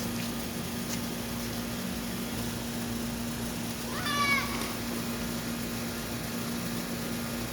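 A short high-pitched cry about four seconds in, lasting about half a second, rising and then holding, over a steady low hum.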